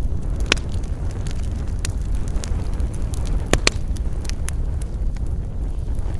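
Wood campfire crackling, with scattered sharp pops, the loudest about half a second in and a close pair a little past the midpoint, over a steady low rumble.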